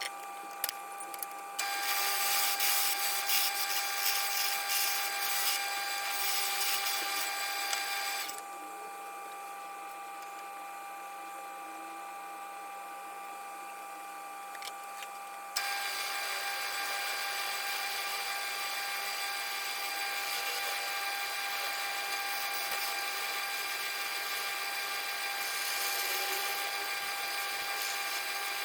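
Wood lathe running with a steady motor hum while a turning tool cuts a small scrap-pine spindle, in two bouts of rough cutting noise: one from about 2 to 8 seconds in, the other from about 15 seconds in onward.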